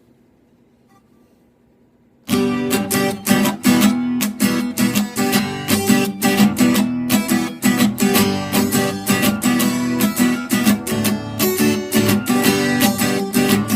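After a short quiet pause, an acoustic guitar starts strumming chords in a steady bluegrass-country pattern with a soft plastic pick: the instrumental intro before the singing comes in.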